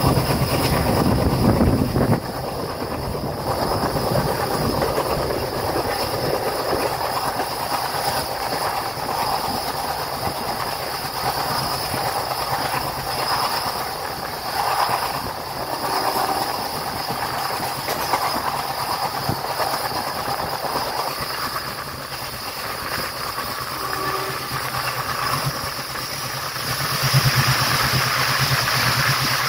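Passenger train of ICF coaches running at speed, heard from the coach door: a steady rolling rumble with the clickety-clack of wheels on the rails. Near the end the train enters a tunnel and the sound swells into a louder low drone.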